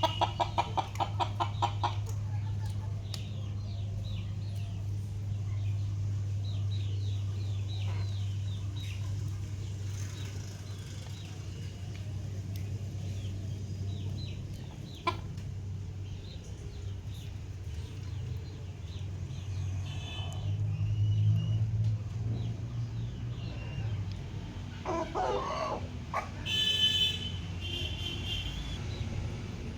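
Domestic chickens clucking, opening with a rapid run of clucks and followed by scattered short calls, with a louder call near the end, over a steady low hum.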